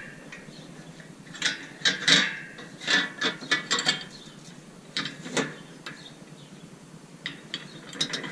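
Ramp connector blocks and their pins being handled, with irregular clusters of clicks and knocks as the parts are picked up and knocked together.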